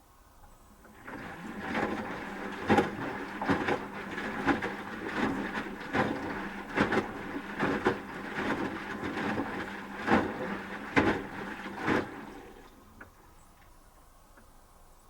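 Asko W6098X washing machine drum turning during the heating phase of a 30°C wash, with the laundry and water tumbling, irregular knocks and a steady motor hum. It starts about a second in and stops after about twelve seconds, leaving a pause.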